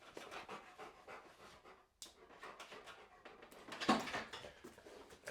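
Rottweiler panting in quick, soft, even breaths, with one brief louder sound about four seconds in.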